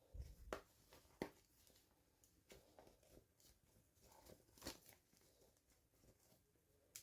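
Near silence, with a few faint clicks and rustles of hands handling small toy packaging: three sharper clicks, about half a second in, just after a second, and near the five-second mark.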